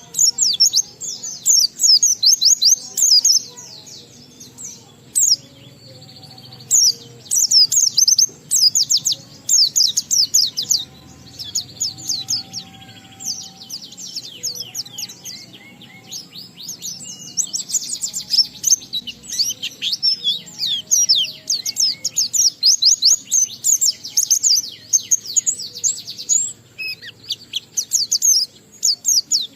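White-eye (pleci) singing a long, rapid twittering song: quick runs of high, sharply falling notes in phrases of a few seconds, with short breaks between them. It is the continuous, full song that keepers call ngalas, mixing in mimicked phrases.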